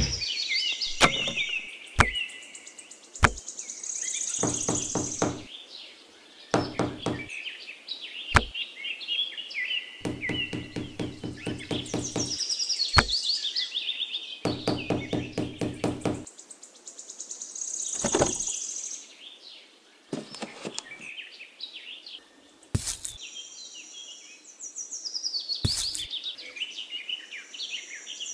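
Sharp wooden taps and knocks as thin bamboo skewers are handled and pushed into sand, heard over steady high bird chirping, with a few short stretches of a low drone.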